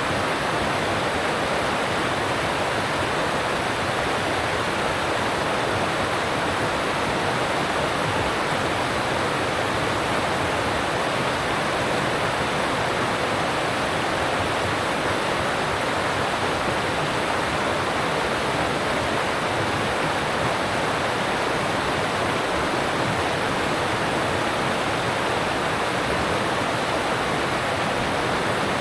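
Alpine stream rushing steadily over rocks.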